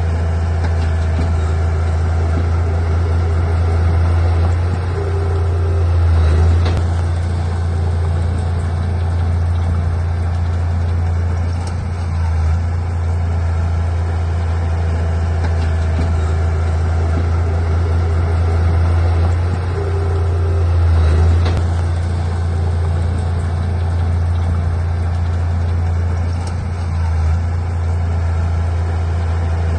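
Heavy diesel engine of earthmoving machinery running steadily with a deep drone, swelling briefly twice.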